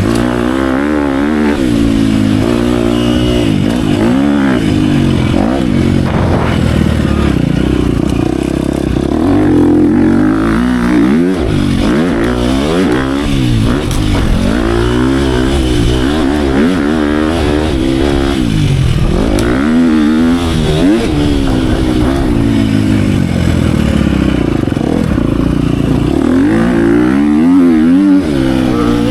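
Dirt bike engine being ridden hard around a motocross track, revving up and dropping back over and over as the throttle is worked and the gears change.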